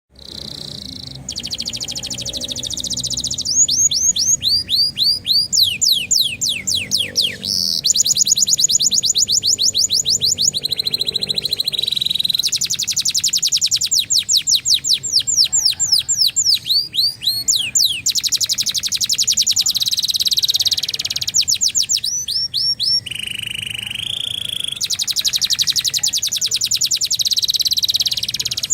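Domestic canary singing continuously in a vigorous, full song. It alternates long rapid trills with runs of quick, falling whistled notes.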